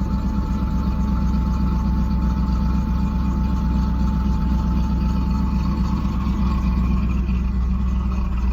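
1991 Chevrolet Camaro's engine idling steadily after a cold start, through its freshly done exhaust.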